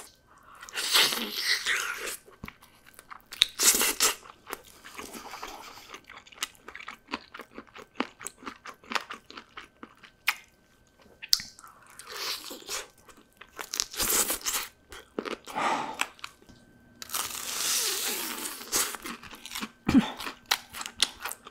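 Close-miked eating of crispy fried chicken: loud crunching bites in bursts every few seconds, with quieter wet chewing clicks between them.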